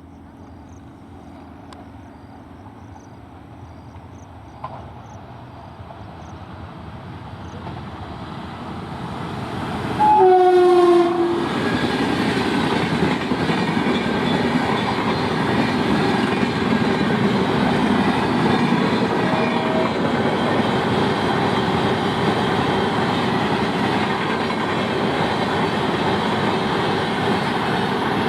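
Indian Railways express train approaching, its noise growing for several seconds. The locomotive horn sounds once for about a second, dropping slightly in pitch, as the train reaches the spot. The train then runs past at speed with a loud, steady rush of wheels on rail.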